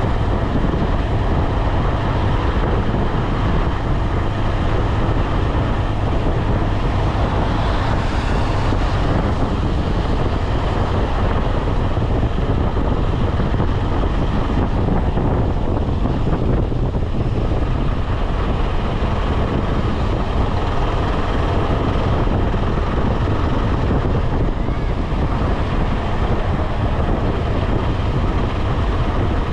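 KTM 250 Adventure's single-cylinder engine running steadily at highway speed, with wind buffeting the microphone.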